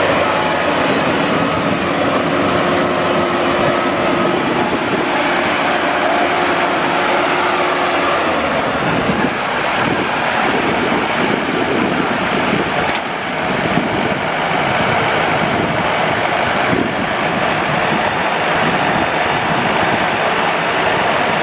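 Rice combine harvester running steadily, its engine and threshing machinery making a loud, continuous roar. A steady whine in it fades out about eight seconds in.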